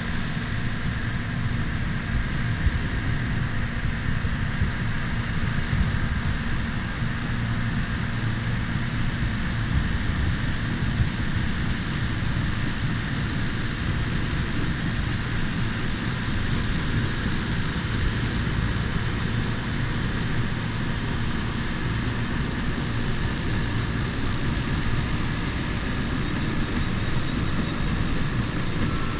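Bulldozer's diesel engine running steadily, a continuous low drone with the machine's working noise over it.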